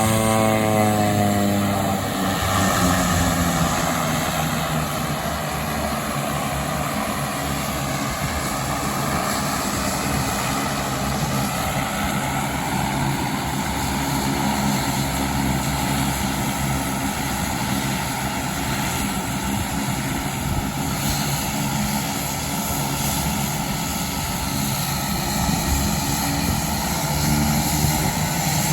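A light propeller aircraft's engine runs steadily, with a pitch that slides during the first couple of seconds as it moves past.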